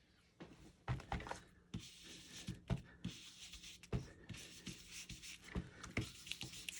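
A blending brush being worked over cardstock to lay ink into the missed areas: a soft, faint brushing hiss with a few light taps scattered through it.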